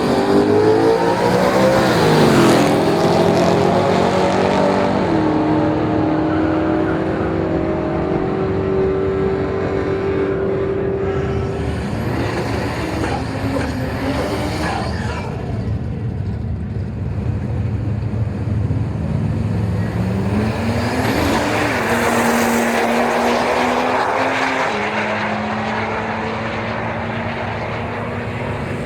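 Drag race cars accelerating hard down the strip. The engine note climbs and then drops in steps at each gear change. A second car's engine rises and shifts the same way about twenty seconds in, after a rushing noise in the middle.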